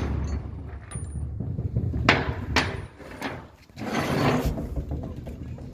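Knocks and clatter of hand tools on engine parts: two sharp strikes about two seconds in, half a second apart, then a longer rattling, scraping noise about four seconds in, over a low background rumble.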